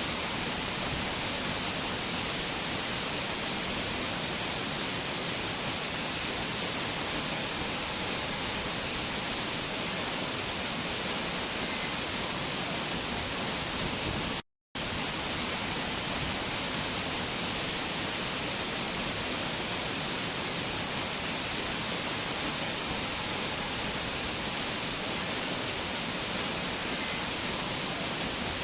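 Waterfall water rushing and splashing in a steady, even roar. It cuts out completely for a split second about halfway through.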